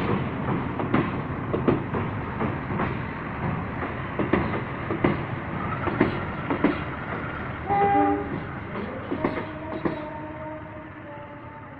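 Passenger coaches of a locomotive-hauled train rolling past, their wheels clacking over rail joints, the sound fading as the train moves away. About eight seconds in a train horn sounds briefly, and fainter horn tones follow near the end.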